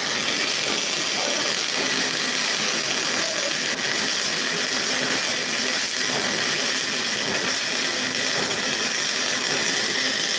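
MIG welding arc running continuously, with a steady dense crackle and sizzle of short-circuit transfer.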